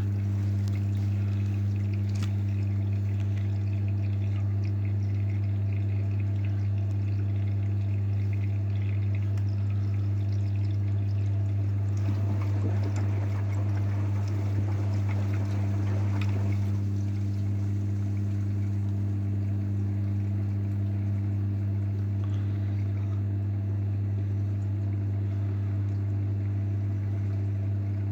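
AEG washing machine with water flowing through it over a steady low hum. The water noise grows louder for a few seconds about twelve seconds in.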